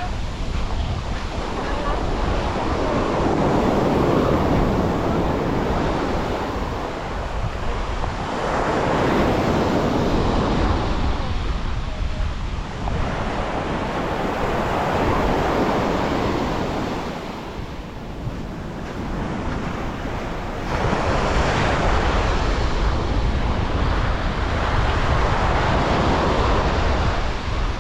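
Sea waves breaking and washing up a beach, swelling and easing about five times, with wind buffeting the microphone.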